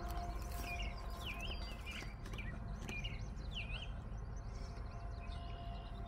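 A bird chirping a few quick up-and-down notes over a low, steady outdoor background hum; the chirps fall in the first four seconds or so.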